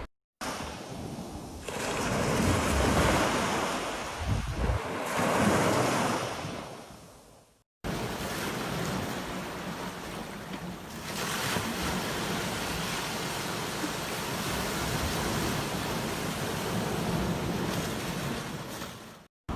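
Ocean surf breaking and washing on a beach, in two stretches with brief silent gaps between them. The first stretch swells and then fades out; the second is steadier.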